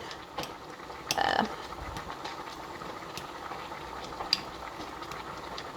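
Water simmering in a small pan on the stove, the double boiler melting soy wax: a steady low hiss, with a few light clicks and a short louder sound about a second in.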